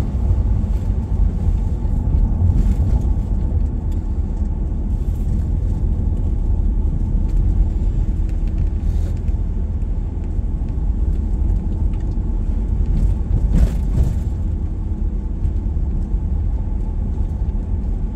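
Steady low rumble of a car driving on a road, engine and tyre noise heard from inside the vehicle, with a faint steady hum. There is one sharp knock about three-quarters of the way through.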